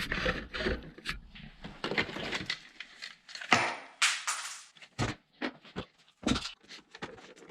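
Irregular clicks, scrapes and a few knocks from a hand tool and hands working on the plastic housing of a Eureka multi-cyclonic vacuum.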